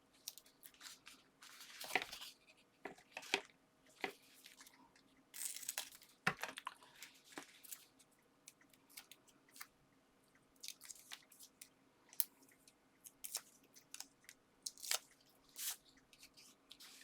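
Paper and card being handled, with crackly rustles and scattered sharp clicks and taps as backing is peeled off foam adhesive pads and the pieces are pressed down.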